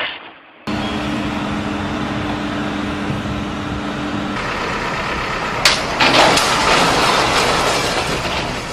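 Heavy truck engine running with a steady hum under a loud rushing noise. A sharp click comes about halfway through, and the noise then grows rougher and louder.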